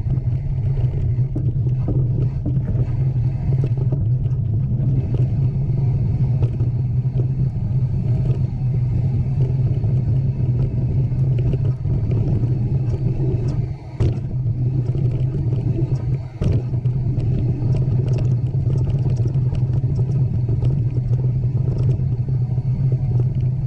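Mountain bike riding over rough trail: a steady low wind rumble on the microphone, with many small clicks and rattles from the bike, and two brief lulls about two-thirds of the way through.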